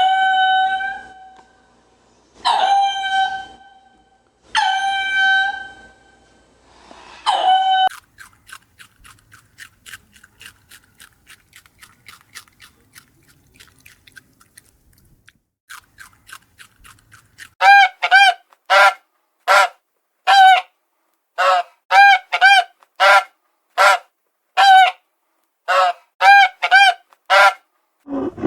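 Goose-like waterfowl honking. Four drawn-out honks come about two seconds apart, followed by a quieter stretch of rapid short calls. Near the end comes a fast run of short, loud honks.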